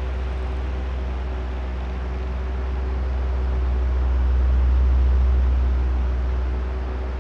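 Oscillating electric fan running: a steady rush of air over a low motor hum with a few faint steady tones. It swells louder once, peaking about five seconds in, then eases back as the head sweeps past.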